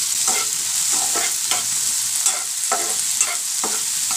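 Shallots, tomatoes and garlic sizzling in hot oil in a frying pan while being stirred, the spatula scraping against the pan about twice a second over a steady sizzle.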